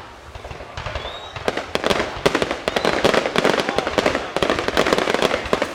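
Fireworks finale barrage: a dense, rapid crackle of many shells bursting, building up about a second in, with a short rising whistle early on.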